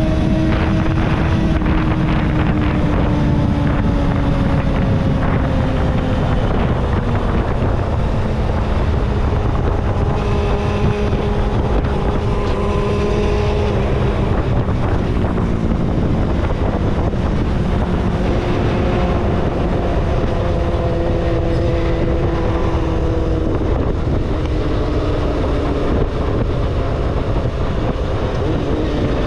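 Kawasaki ZXR250 inline-four engine running under way, with wind buffeting the microphone. The engine pitch slowly falls and rises again several times as the speed changes.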